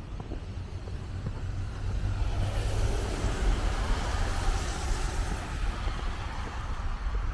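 A vehicle passing on a street in a snowstorm, its tyre hiss swelling a couple of seconds in and fading out near the end, over a steady low rumble of wind on the microphone.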